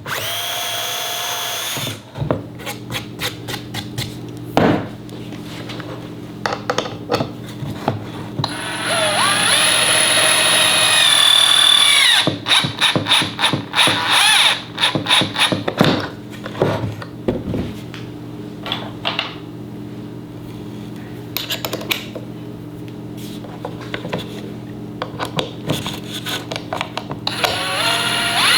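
Cordless drill-driver working wood in repeated short runs, its motor whine rising and falling as it speeds up and slows. Between runs there are quick series of sharp clicks, over a steady low hum.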